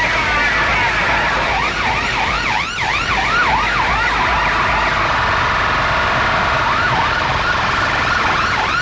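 Siren-style sound effect blasted through a large DJ loudspeaker system: quick rising-and-falling whoops, several a second, in runs around the start and again near the end, with steadier held tones between and a heavy low bass hum underneath.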